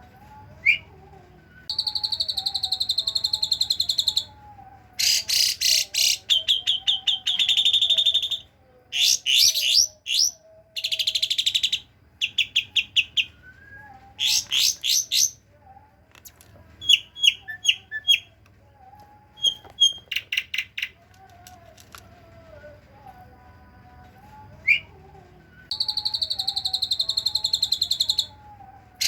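Asian pied starling (jalak suren) singing in bursts of fast, buzzy pulsed trills and short sharp whistle notes, each phrase lasting one to two seconds with brief pauses between. The song mimics the cililin and kapas tembak songs.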